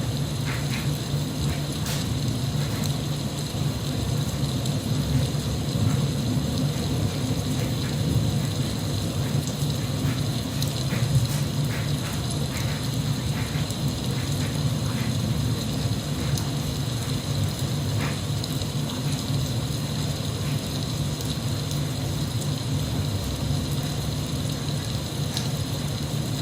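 Steady rain falling, an even hiss with a low rumble beneath and scattered faint drip ticks.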